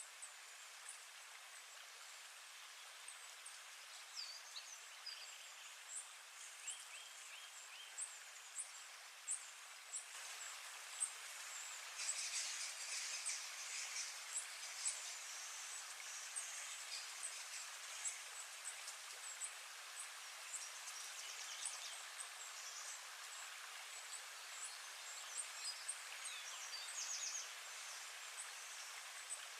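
Faint birds chirping outdoors: short high chirps every second or so, with a few brief trills, over a soft steady hiss.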